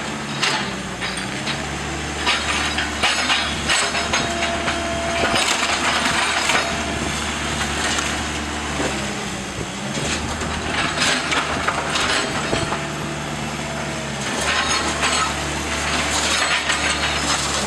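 Wooden house framing cracking and splintering as it is crushed and torn apart during demolition, with repeated crunching breaks throughout. A steady engine drone runs underneath.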